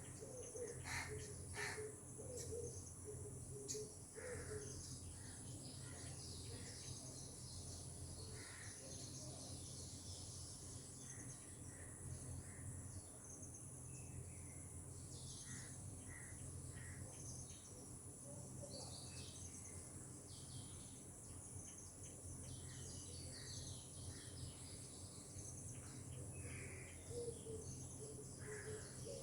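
Birds chirping and calling, with a dove cooing at the start and again near the end, over a steady high-pitched tone.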